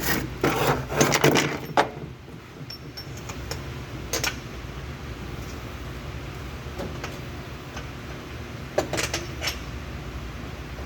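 Metal clinking and rattling, like hand tools or small metal parts being handled: a burst of clinks in the first two seconds, single clinks a little later, and a short rattle near the end, over a steady low hum.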